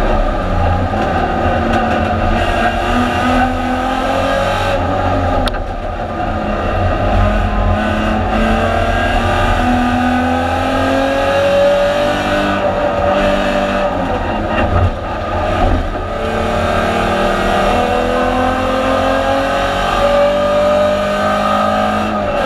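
Alfa Romeo 156 GTA race car's 3.2-litre V6 heard from inside the stripped cabin, climbing in pitch as it accelerates and dropping back at gear changes or lifts a few times, over a heavy low rumble.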